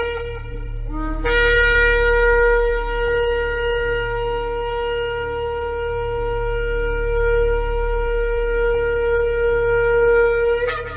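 Shofar (ram's-horn trumpet) blown in one long held blast lasting about nine seconds. It starts about a second in with a short lower note that jumps up to the main tone and ends with a brief upward break. A low steady drone runs underneath.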